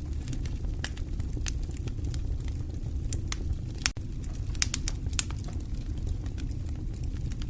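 Fire crackling, with irregular sharp pops and snaps over a steady low rumble of the flames. The sound drops out for an instant about four seconds in.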